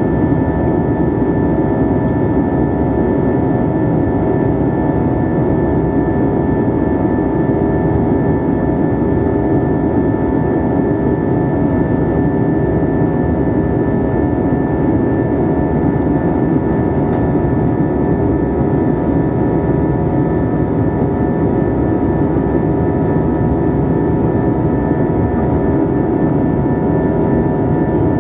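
Steady cabin noise inside an Airbus A320 in flight: a constant roar of engines and airflow, with several steady tones above it.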